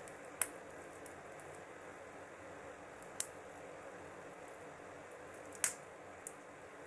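Wood fire crackling: a soft steady hiss of burning wood, broken by three sharp pops a few seconds apart and a few fainter ticks.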